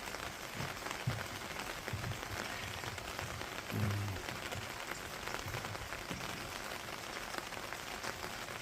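Steady rain falling, an even hiss, with scattered short, dull low drips or knocks.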